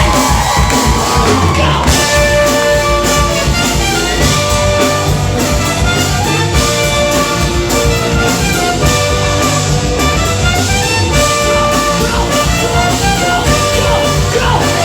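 Live band playing loudly: drums and a brass horn section playing a riff together, with the full band coming in about two seconds in.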